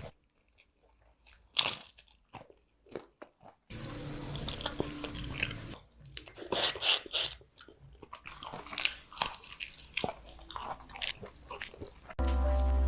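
Close-miked eating sounds: crunchy bites and chewing in short edited snippets, with abrupt silent gaps between them. Music starts near the end.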